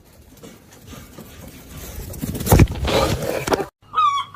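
A loud scraping, rustling noise lasting about a second and a half, then, after an abrupt cut, a chicken's wavering call near the end.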